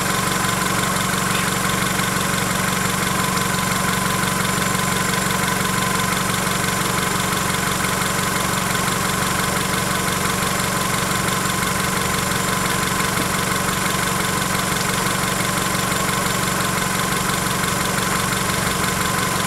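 Honda Accord engine idling steadily, its newly replaced alternator charging the battery and its freshly adjusted drive belt no longer squealing.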